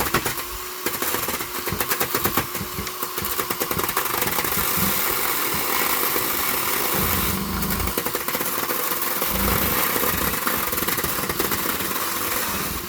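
Power screwdriver driving screws into pallet wood, running almost without pause with a fast, rattling hammer; the screws go in stiffly.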